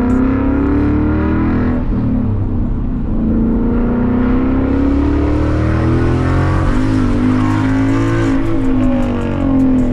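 Ford Mustang GT's 5.0 V8 running through a loud aftermarket exhaust, its note rising and falling as the car is driven and accelerates.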